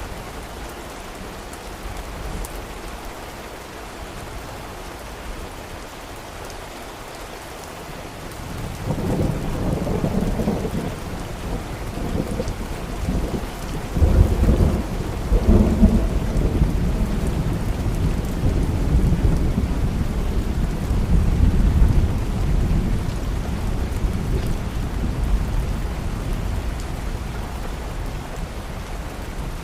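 Steady rain with a long roll of thunder that rises about nine seconds in, peaks around fifteen seconds and slowly rumbles away.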